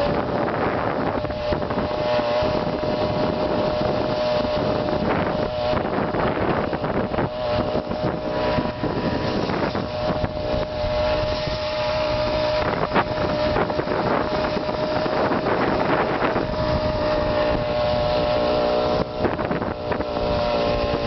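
A Poulan Pro 260 42cc two-stroke chainsaw engine drives a homemade chainsaw bike and runs at a steady pitch while riding, with wind noise on the microphone.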